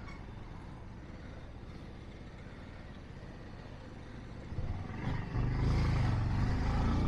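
Motorcycle running in slow traffic with a steady low rumble, which grows much louder about five seconds in.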